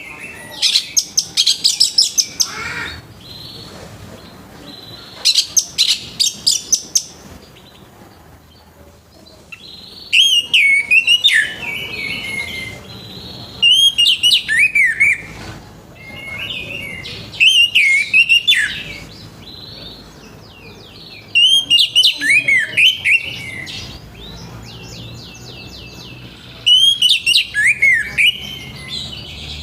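Orange-headed thrush singing its full song: loud phrases of a couple of seconds, repeated about every four seconds, seven in all. The first two are fast rattles of high notes; the rest are quick sweeping notes that rise and fall.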